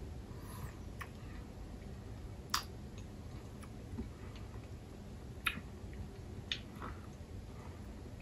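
Faint chewing of a candy-shelled chocolate button, with a few sharp, irregular clicks or crunches, the loudest about two and a half seconds in and again around five and a half seconds.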